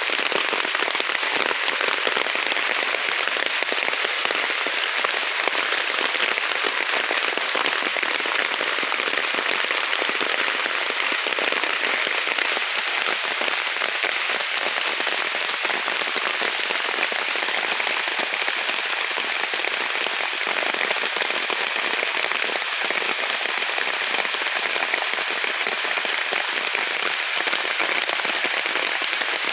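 Rain falling steadily in a forest, an even hiss of drops.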